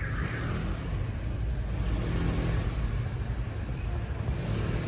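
Steady low rumble of street traffic, with car engines running.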